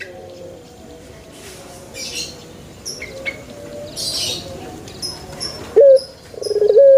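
Small birds chirping faintly, then near the end a male puter dove (Barbary dove) starts to coo. A brief rising note comes about six seconds in, then a quick stuttering start slides into a long, loud, steady coo.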